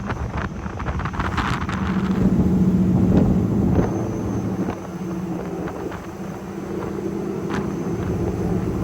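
Steady engine hum of a moving vehicle, with wind buffeting the microphone.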